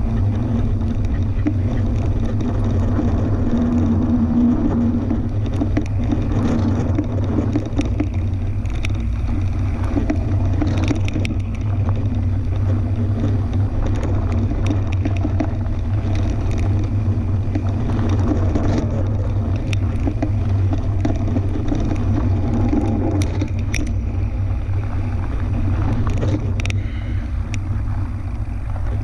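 Fat-tire tandem mountain bike being ridden along a dirt trail: a steady low rumble of riding noise, with scattered clicks and rattles from the bike.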